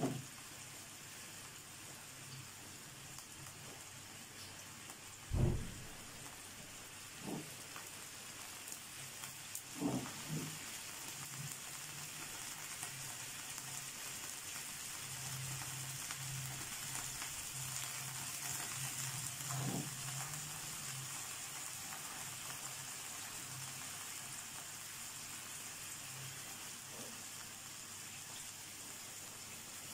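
Chicken tikka pieces on wooden skewers sizzling steadily in shallow oil in a non-stick frying pan, with a few soft knocks along the way.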